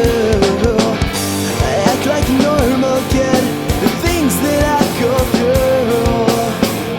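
Instrumental break of a punk rock song: a guitar plays a wavering, bending melody over a steady drum beat and bass.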